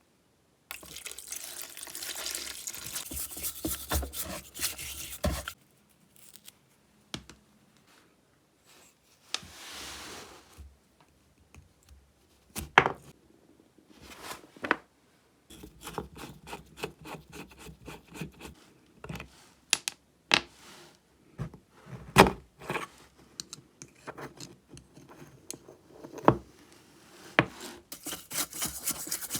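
Hand work on small metal parts: stretches of scraping and rubbing, a short hiss about ten seconds in, and scattered sharp knocks and clicks of parts being handled and set down.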